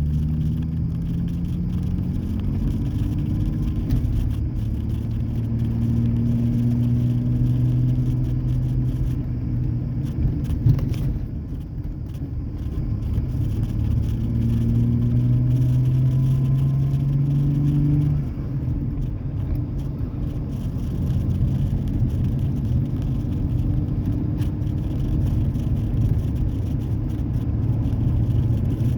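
Exhaust drone of a 2003 Ford Ranger's 4.0-litre V6 with the muffler deleted and the catalytic converters still on, heard from inside the cab on the move. The engine note climbs slowly under acceleration, eases briefly around 11 seconds in, climbs again and drops suddenly about 18 seconds in, then holds steady.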